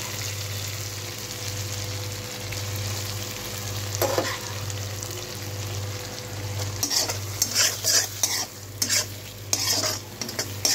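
Masala-coated chickpeas sizzling in ghee in an iron kadhai under a steady hiss, with a spatula stirring them. There is one knock of the spatula about four seconds in, and from about seven seconds on come repeated loud scrapes against the pan.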